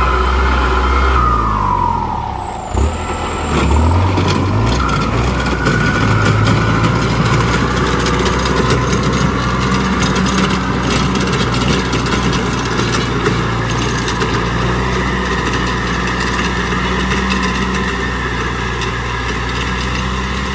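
ZT 155 tractor engine running. Its pitch drops about two seconds in as it slows, then picks up again around four seconds and holds steady.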